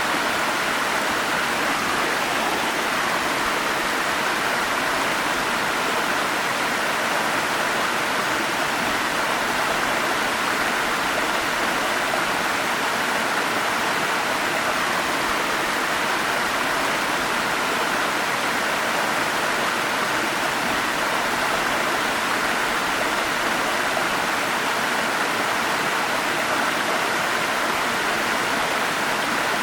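A forest stream's water flowing in a steady, unbroken rush.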